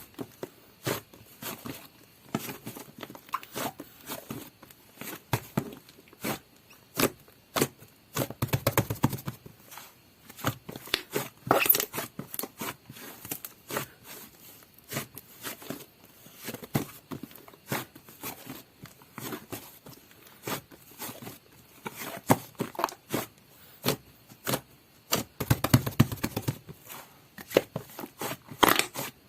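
Butter slime being squeezed, poked and stretched by hand: a steady run of small wet clicks, pops and squishes, with two denser stretches of squishing about nine seconds in and near the end.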